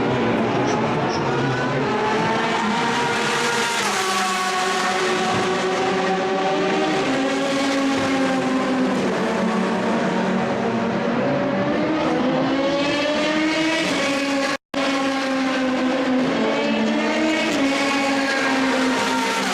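Endurance race car engines at race speed, pitch climbing and falling with acceleration, gear changes and braking. The sound cuts off abruptly about 15 seconds in and picks up again on another stretch of cars running.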